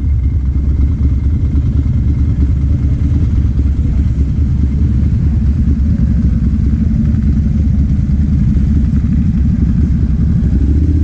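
Ducati Monster 796's air-cooled L-twin engine running steadily at speed.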